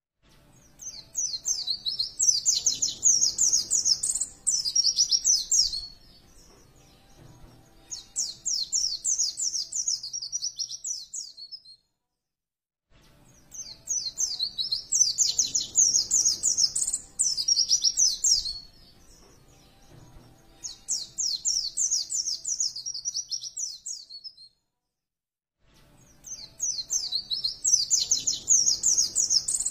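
White-eye (pleci) singing a fast, high chattering song in phrases a few seconds long with short pauses between them. The phrases repeat in a regular cycle, like a looped training recording.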